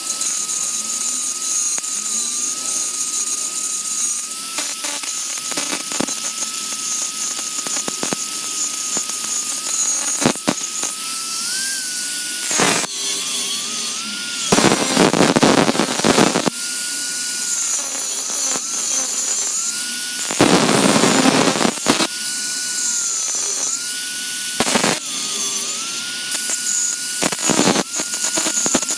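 Angle-grinder-driven belt grinder running with a steady high whine. About five times the motor's pitch sags under load while a loud grinding rasp rises as work is pressed against the belt; the two longest passes come near the middle.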